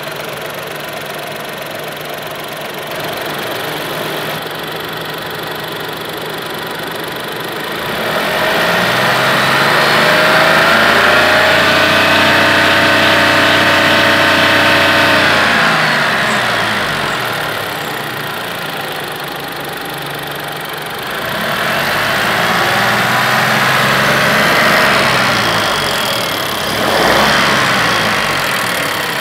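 Skoda Rapid's 1.0 TSI turbocharged three-cylinder petrol engine (VW EA211) heard from the open engine bay. It idles steadily, is revved up about eight seconds in and held at a steady raised speed for several seconds, then drops back to idle. It is revved again, then given a short blip near the end.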